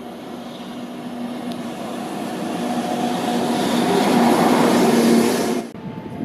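Freight train hauled by an EF64 electric locomotive, drawing nearer and getting louder, with a steady hum under the running noise. The noise drops off suddenly near the end.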